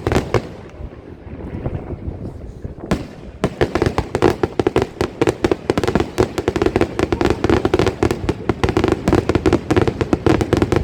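Fireworks going off: a single bang at the start, then from about three and a half seconds in a dense, continuous barrage of rapid bangs and pops.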